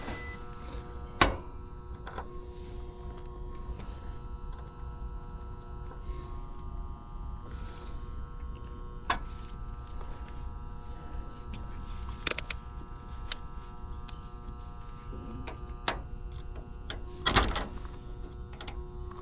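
A steady electrical hum made of several held tones, broken by a handful of sharp clicks and knocks. The loudest knock comes about a second in and another near the end.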